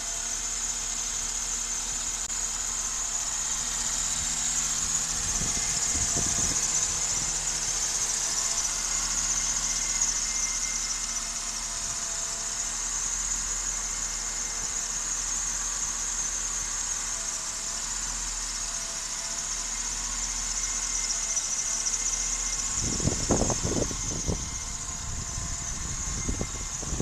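Mercedes-Benz M104 straight-six petrol engine idling steadily, with a strong high hiss over the engine note. A few louder bumps come through near the end.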